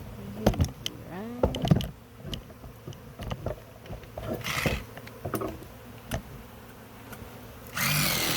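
Honeybees buzzing as they fly close past the microphone, their pitch sweeping up and down, among scattered knocks and clicks of hive handling. A longer rustling scrape comes near the end.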